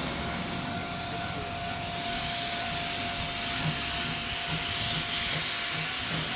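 C12 66 steam locomotive working hard, a steady hiss of steam with its exhaust chuffing in a regular beat that comes in about halfway.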